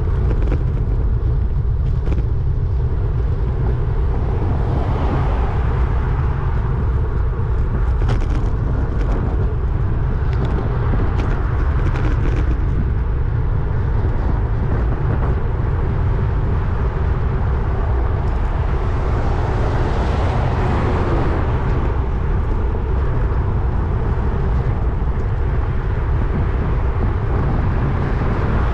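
Wind buffeting the microphone of a camera on a moving road bike: a steady low rumble with a rushing hiss over it. A louder whoosh swells and fades twice, about five seconds in and again about twenty seconds in.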